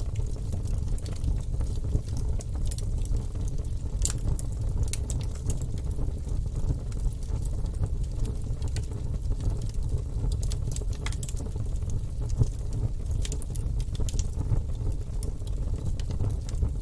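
Wood fire burning in a fireplace, the logs crackling and popping in frequent irregular snaps over a steady low rumble.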